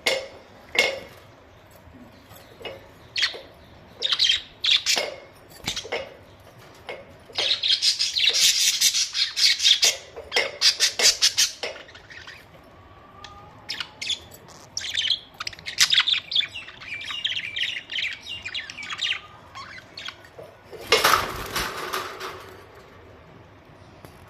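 Budgerigars chattering and squawking: short sharp calls in bursts, a fast run of rapid chirps in the middle, and a loud harsh squawk near the end.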